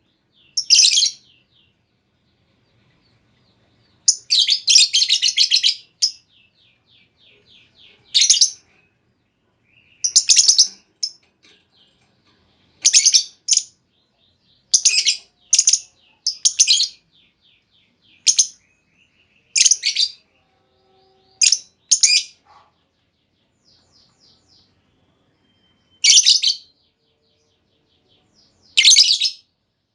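Female lovebird giving shrill chirping calls in short, loud bursts every second or two, with a longer run of rapid chirps about four seconds in.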